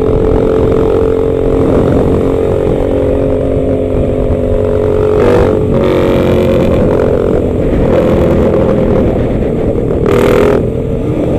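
Motorcycle engines running steadily on a group ride, with rumbling road and wind noise. There are two brief rushes of hiss, about five and ten seconds in.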